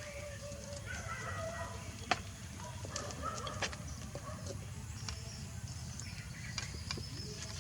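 Short pitched animal calls with a few sharp clicks between them, over a steady low rumble.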